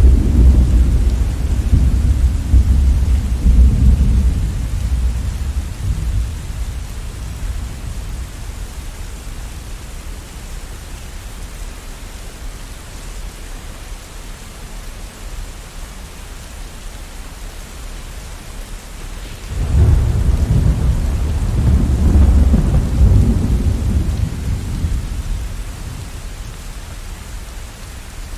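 Steady rain with rolling thunder: a deep rumble fades away over the first several seconds, then a second peal breaks in sharply about two-thirds of the way through and rolls off again.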